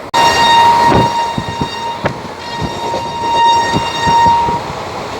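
Train horn held in one long, steady note for about four and a half seconds, over the running rumble and wheel clacks of the moving train.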